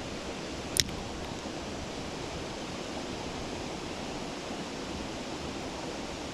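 Steady rushing of flowing stream water, with a single brief click about a second in.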